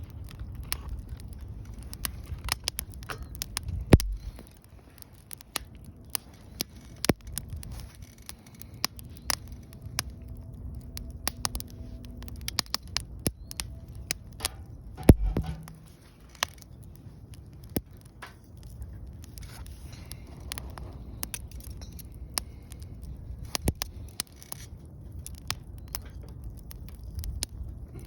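Wood fire crackling in a fire pit, with many sharp irregular pops and snaps over a low rumble. Two heavier dull thumps come about 4 seconds in and about halfway through.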